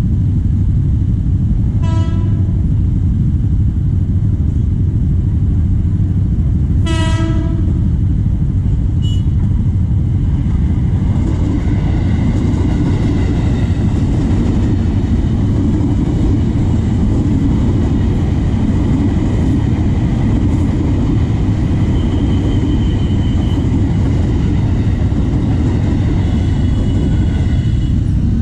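A KRL electric commuter train sounds its horn in two toots, a short one and then a longer, stronger one. It then rolls past close by with a heavy rumble and a steady whine from its electric motors. Idling traffic rumbles underneath throughout.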